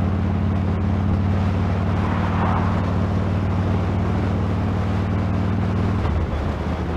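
A motorcycle engine running steadily under heavy wind noise on the external microphone of a helmet camera. The engine note changes about six seconds in.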